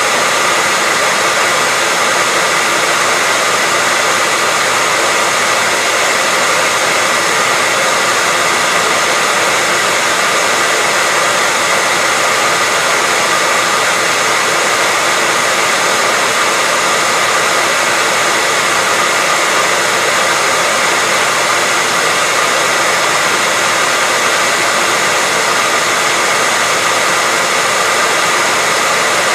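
Hair dryer running steadily, an even whooshing of blown air over a faint motor whine, used as continuous white noise.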